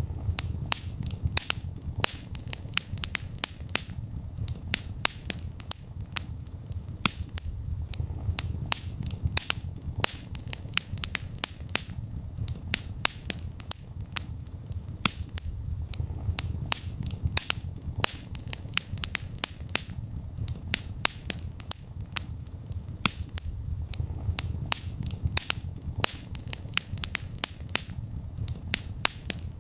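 Wood fire burning in a fireplace: many sharp, irregular crackles and pops, several a second, over a low steady rumble of the flames.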